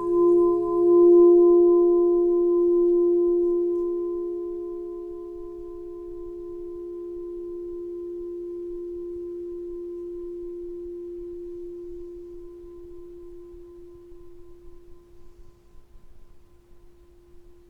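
A singing bowl ringing with a pulsing wobble. It swells about a second in, then slowly fades over about a dozen seconds to a faint hum.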